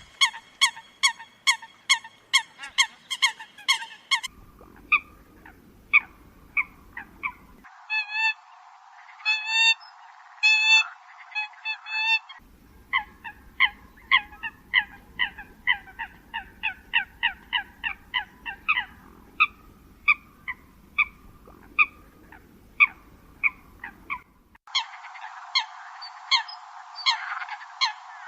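Eurasian coots calling: short, sharp honking notes repeated about two to three times a second. The recording is spliced from several takes, so the background hiss and tone change abruptly every few seconds.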